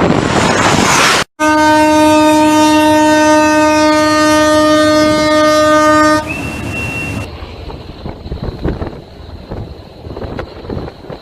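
A ship's horn sounding one long steady blast of about five seconds, starting abruptly just over a second in. Wind noise comes before it, and a short high tone and rougher wind noise follow it.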